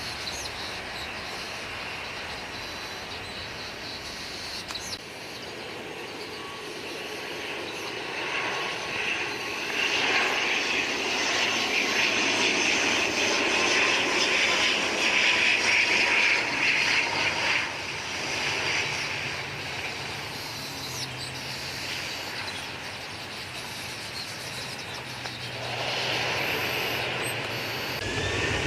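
Airliner engines passing close by: the noise swells to a peak about halfway through, then fades, and rises again near the end.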